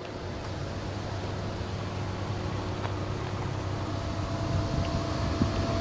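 Jaguar F-Pace's 2.0-litre turbocharged four-cylinder idling steadily, a low hum with faint steady tones; a higher steady whine joins about four seconds in.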